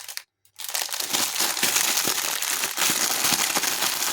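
Packs of Jaffa cakes in their crinkly wrapping being handled and pulled from their box, a dense stream of crackling and rustling that starts after a short silent break.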